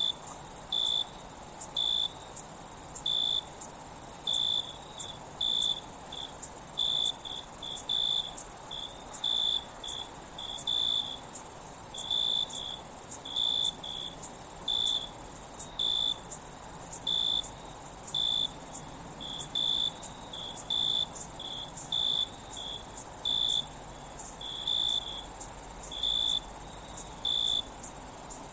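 Night insect chorus: a steady high-pitched trill with crickets chirping over it, short chirps about one or two a second at an uneven pace.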